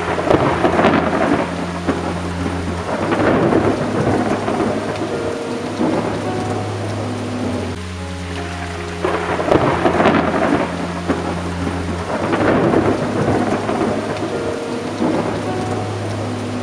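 Thunderstorm: rain falls steadily while thunder rumbles swell up several times, about a second in, again around three to four seconds, and twice more in the second half. A low drone that changes pitch every few seconds runs underneath.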